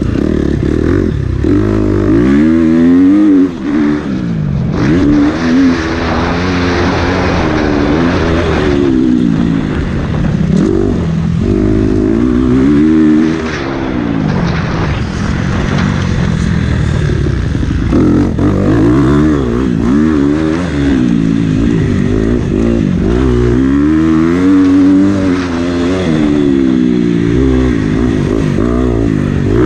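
Motocross bike engine under hard riding, its pitch climbing and dropping over and over as it accelerates, shifts and shuts off. A loud rushing noise runs alongside it for several seconds in the first half.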